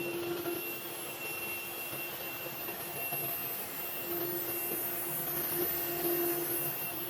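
Vertical CNC machine running as it cuts a limestone aluminum honeycomb panel: a steady whine over an even hiss.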